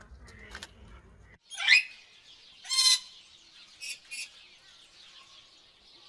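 A low rumble with faint clicks, cut off abruptly about a second and a half in. Then loud, shrill bird-like calls follow: two long ones about a second apart, then two short ones, over a faint steady high hiss.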